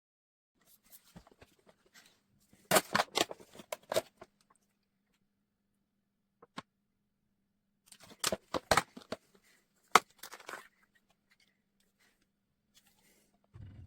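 Handling noise: two bursts of clicks, rattles and rustling, one about three seconds in and one about eight seconds in, with a single click between them and a faint steady hum underneath.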